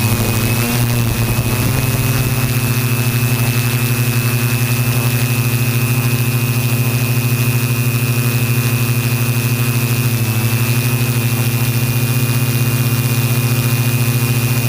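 Align M470 quadcopter's electric motors and propellers in flight: a steady buzzing hum with a thin high whine over it, dipping slightly in pitch for a moment about ten seconds in.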